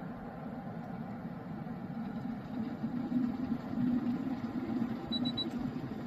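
ecosa 2200-watt glass electric kettle heating water at a rolling boil, with a steady rumble. Three short high beeps sound near the end, and soon after the boiling noise stops abruptly.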